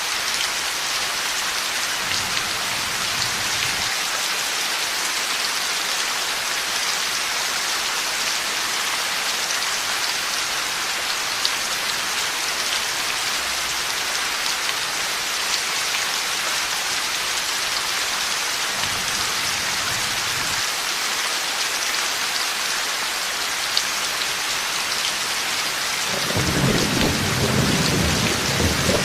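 Heavy thunderstorm rain falling steadily. Low rolls of thunder come about two seconds in and again about two-thirds of the way through, and a louder roll of thunder starts near the end.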